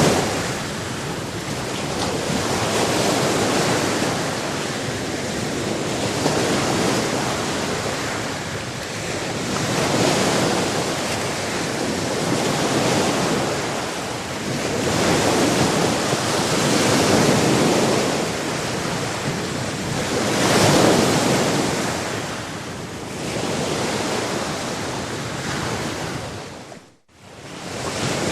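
Sea waves washing onto a shore, a steady rushing noise that swells and falls back every few seconds. The sound cuts out for a moment near the end, then resumes.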